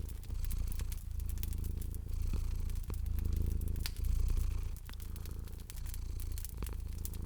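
Cat purring in an even, low rumble that swells and eases about once a second, under scattered sharp pops and crackles of a fireplace fire.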